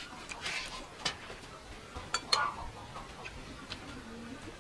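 A person eating: chewing and lip smacks with scattered short clicks, the loudest a pair of sharp clicks a little after two seconds in.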